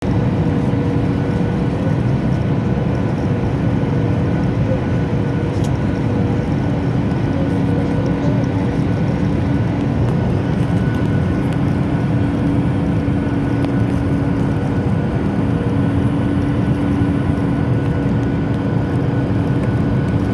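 Jet airliner's engines and rushing airflow heard from inside the passenger cabin: a steady, loud noise with a few constant humming tones, unchanging throughout.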